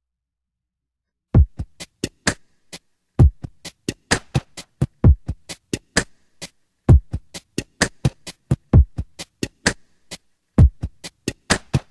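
Electronic drum-machine beat of deep kick drums and sharp snare and hi-hat hits in a steady repeating pattern, starting after about a second and a half of silence; background music.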